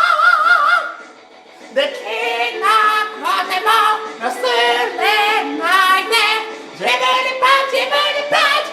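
Karaoke singing over a backing track. A high voice holds a note with wide vibrato at the start, drops away for about a second, then sings a string of short, quick phrases.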